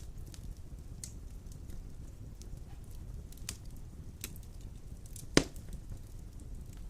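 Wood fire burning in a fireplace: a steady low rumble of flames with scattered small crackles, and one loud sharp pop about five seconds in.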